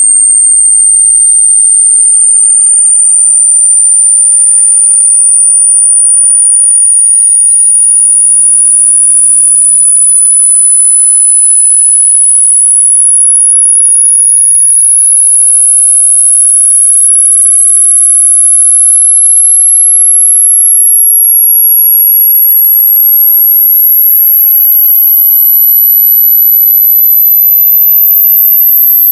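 A loud, very high-pitched electronic pure tone, held steady in loudness and slowly rising in pitch throughout, with faint sweeping tones beneath it.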